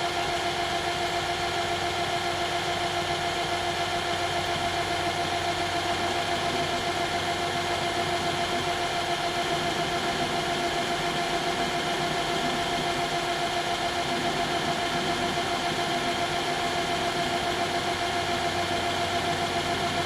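Metal lathe running at a steady speed with a constant whine while a small drill bit held in the tailstock is slowly fed into a steel workpiece.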